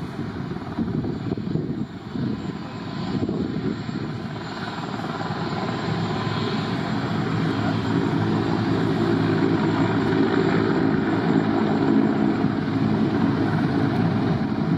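Aircraft engine noise growing steadily louder, with a steady hum of low tones coming in about halfway through.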